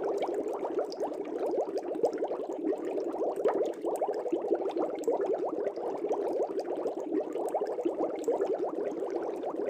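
Fish tank air bubbles: a steady, dense stream of fast bubbling in the water.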